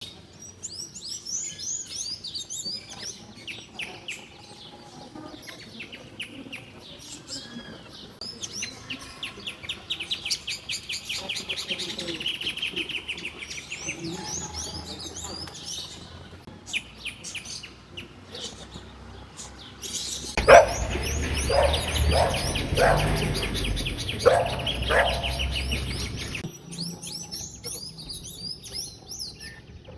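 Several birds chirping and singing in a morning chorus: quick high chirps, rapid trills and warbling phrases overlapping. Partway through, a louder low rumble with several sharp knocks comes in for about six seconds, then stops.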